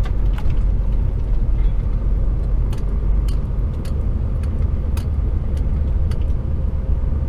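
HGV container lorry's diesel engine and road noise heard from inside the cab, a steady low rumble. Through the middle there is a run of sharp ticks, about two a second.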